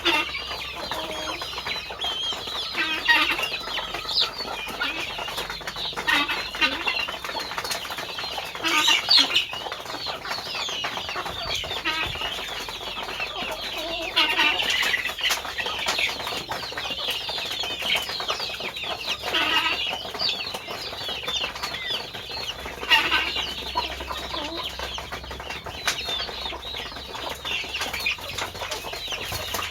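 A flock of chickens clucking and calling, many overlapping calls throughout with louder bursts of calling every few seconds.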